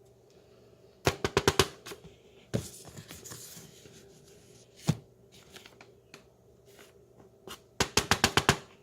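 Tapioca starch powder being packed down by hand, heard as sharp taps: a quick run of about six about a second in, a few single taps, and another quick run near the end.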